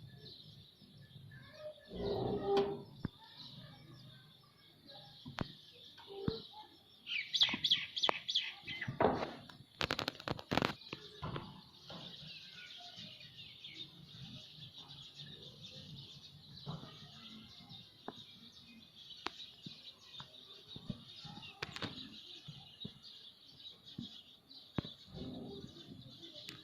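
Ringneck parrot chirping and chattering steadily, with a louder run of calls about seven seconds in and a brief flurry of sharp clicking noises a few seconds later.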